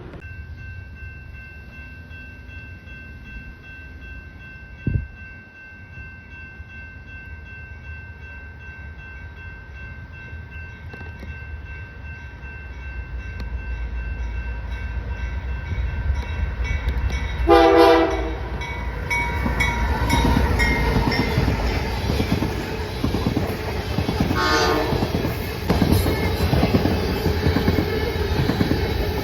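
A Metra train approaching and passing: its rumble builds steadily, with a short loud blast on the locomotive horn about two-thirds of the way through and a shorter, quieter horn toot a few seconds later, then the clatter of the railcars going by.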